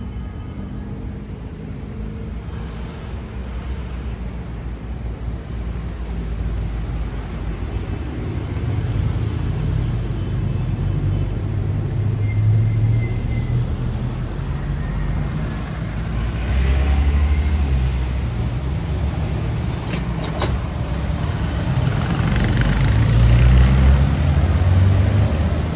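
Street traffic: motor vehicles passing close by, their low engine and tyre rumble swelling and fading several times, loudest near the end, with a sharp click or two about twenty seconds in.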